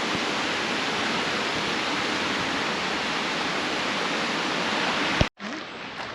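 Rain-swollen river rushing through a gorge, a steady dense wash of water noise. About five seconds in it cuts off abruptly with a click and gives way to a much quieter background with a few faint ticks.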